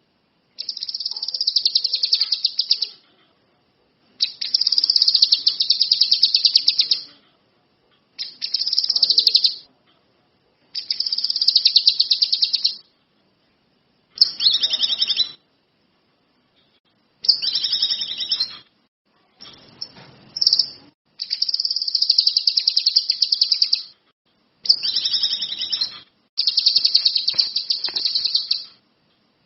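Kinoi songbird singing in repeated phrases of fast, high trilled notes, each phrase one to three seconds long with short pauses between them.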